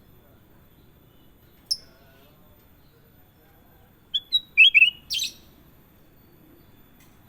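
Kutilang emas bulbul calling: one sharp chirp, then a few seconds later a quick phrase of several short whistled notes ending in a harsher burst.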